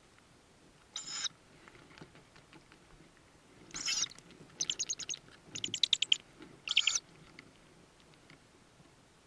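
Tawny owl chicks in the nest box giving short, hoarse, hissing calls, five in all between about one and seven seconds in, two of them broken into fast rattling trills.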